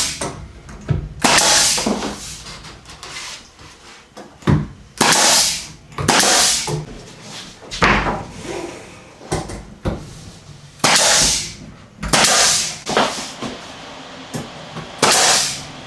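Woodworking sounds from fitting interior trim boards: about ten short, sharp knocks and scrapes at irregular intervals.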